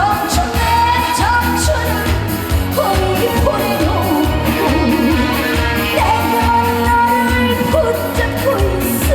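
Live band music with a steady beat and bass under a lead melody that slides up into held notes: an instrumental break in a trot song.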